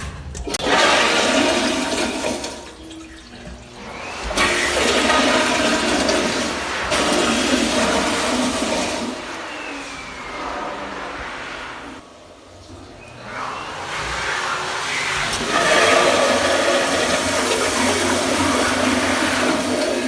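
Public restroom toilets flushing, one flush after another: a short rush of water at the start, then two longer rushes lasting several seconds each, with brief lulls between.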